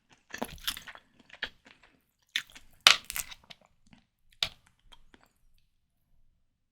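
Close-miked eating sounds of prawn cocktail being bitten and chewed: clusters of sharp, crisp crunches and mouth clicks, loudest a little under halfway through, then stopping about five seconds in.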